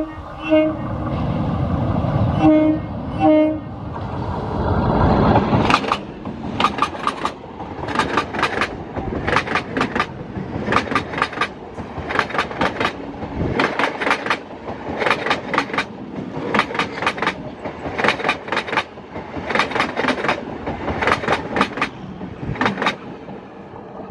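Local electric multiple unit train passing: a few short horn toots in the first few seconds, then its wheels clattering over the rail joints in a long even run of sharp clacks in pairs and threes, loud enough that the track sounds like it's about to break.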